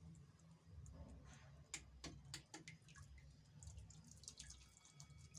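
Near silence with a few faint, scattered drips of water over a low steady hum.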